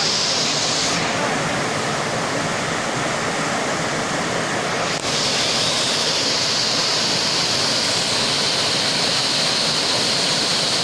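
Rushing river water: a steady, loud noise of fast-flowing water. It dips briefly and shifts slightly about five seconds in.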